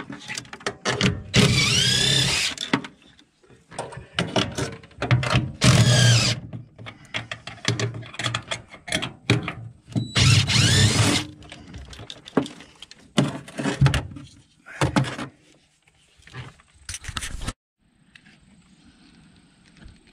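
Power drill run in repeated bursts about a second long, its whine rising and falling in pitch, with knocks and clatter of work on the metal boat hull between them; it stops abruptly near the end.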